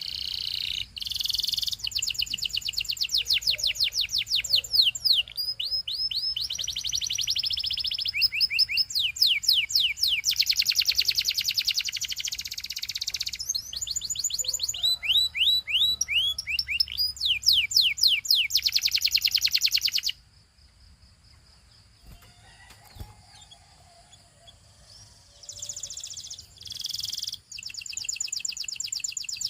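Canary singing: fast trills of repeated high notes, one run after another. It breaks off about twenty seconds in and starts again about five seconds later.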